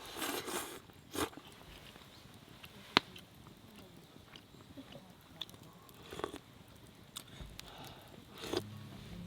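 A person eating, with quiet chewing and a sharp click about three seconds in.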